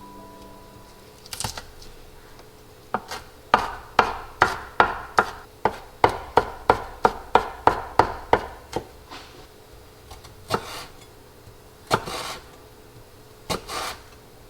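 Kitchen knife chopping on a wooden cutting board: a steady run of about three chops a second for several seconds, then a few single chops near the end.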